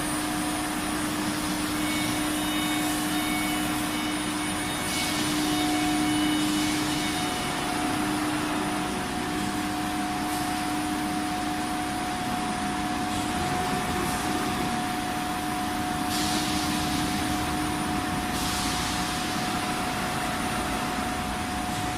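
Sawmill saw machine (aara machine) running with a steady hum and a constant whirring, with a few brief louder hissing swells.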